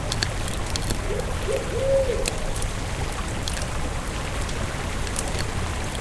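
Campfire burning with a steady low rumble and frequent sharp crackles and pops. About a second in, a short low pitched call sounds twice in quick succession.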